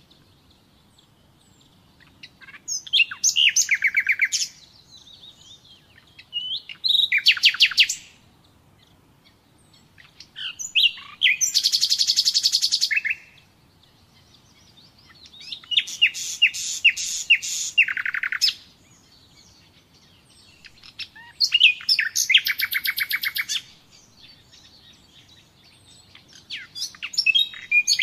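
Nightingale singing: about six separate song phrases, each one to three seconds of rapid repeated notes and trills, with pauses of a few seconds between them.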